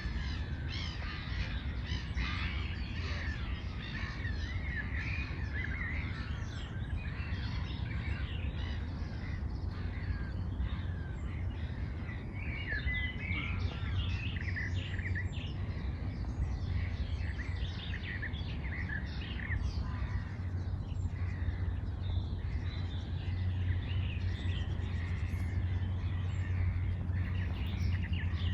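A chorus of many birds calling and chirping, crow-like caws among them, over a steady low rumble.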